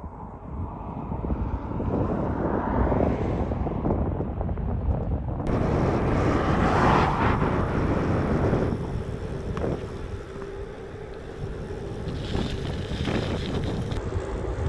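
Wind rushing over an action camera's microphone on a moving road bike: a steady low rumble that swells louder for a couple of seconds about six seconds in.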